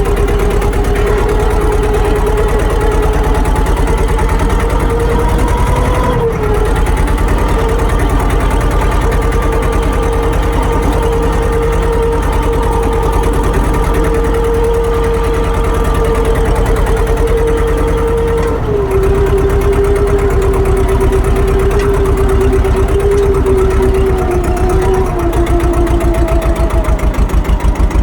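An engine or motor running steadily with a whining tone and a fast, even pulsing underneath. The pitch steps up about six seconds in and drops back about nineteen seconds in.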